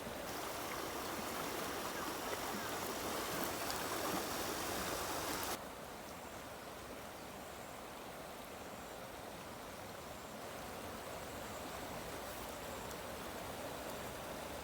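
Steady rush of flowing water, louder and brighter at first, then dropping abruptly to a softer rush about five and a half seconds in.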